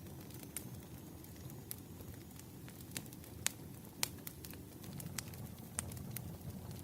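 Burning firewood crackling: a low steady rumble under scattered sharp crackles and pops, with two louder pops midway.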